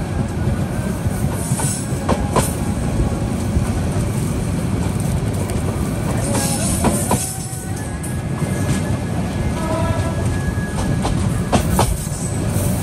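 Running noise of an intercity passenger train heard from beside a moving coach: a steady loud rumble of wheels on rails. Pairs of sharp clacks come about every four to five seconds as the wheels cross rail joints.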